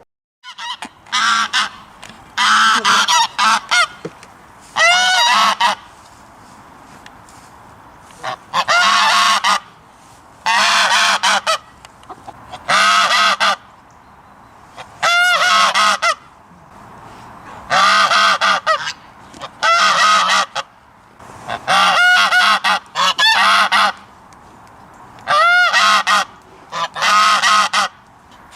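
A goose honking over and over, in short runs of loud honks about every two seconds.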